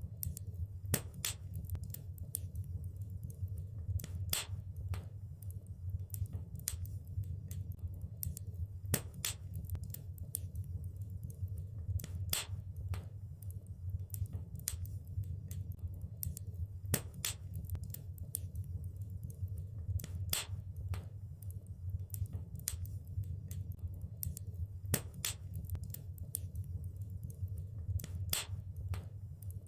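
Wood fire crackling: irregular sharp pops and snaps, several a second, some louder than others, over a steady low rumble.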